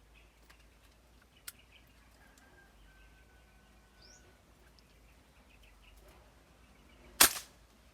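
Faint bird chirps and calls, then one loud, sharp shot from a homemade PCP air rifle about seven seconds in, with a brief ring after it. A small click comes about a second and a half in.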